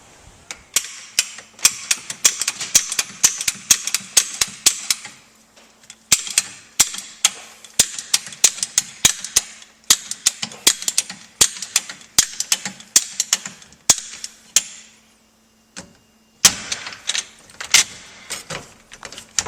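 Rapid, irregular metallic clicks and clatter from copper-tubing hand tools being handled and reset, several sharp knocks a second, stopping for about a second and a half near the end before starting again.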